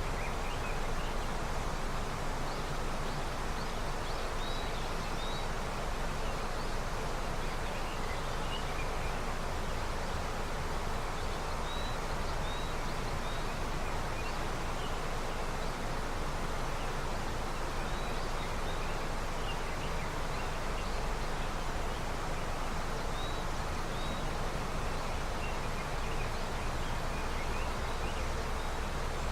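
Snowmelt river flowing in a steady rush of water, with faint short high chirps scattered through it.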